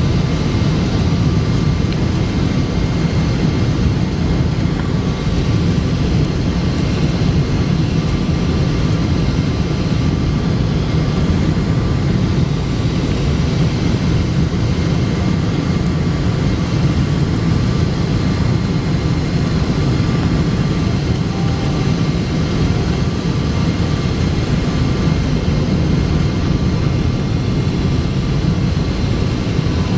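Boeing 777-200 engines and airflow heard from inside the passenger cabin: a loud, even rumble with a faint steady whine above it, unchanging throughout.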